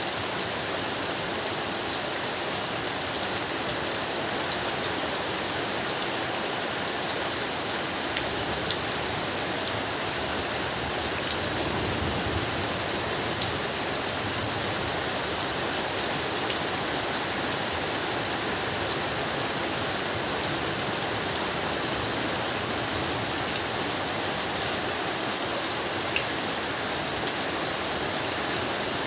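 Steady rain falling, an even hiss with small scattered drop ticks throughout.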